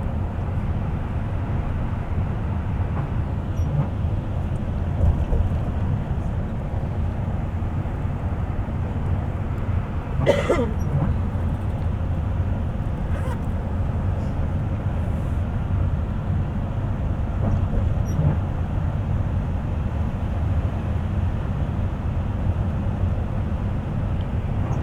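Steady rumble of a moving bus, engine and road noise heard from inside the cabin, with a brief higher-pitched sound about ten seconds in.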